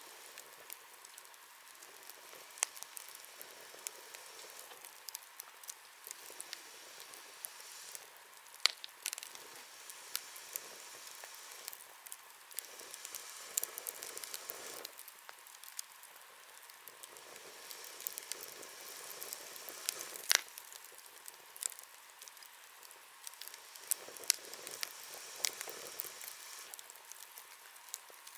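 Wood bonfire burning with a steady hiss and scattered sharp pops and crackles. The two sharpest pops come about nine seconds in and about twenty seconds in.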